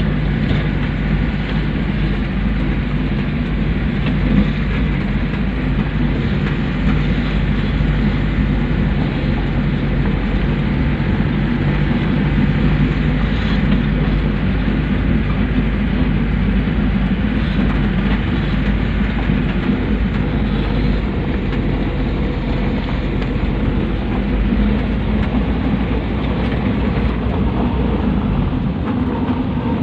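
Pick-up dump truck's engine running steadily, a low drone with a constant wash of noise over it.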